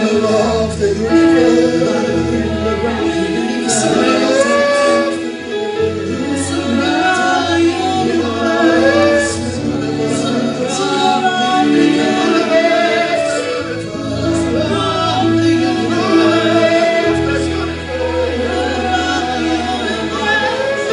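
Gospel worship music: a band with sustained bass and keyboard chords behind male and female voices singing together.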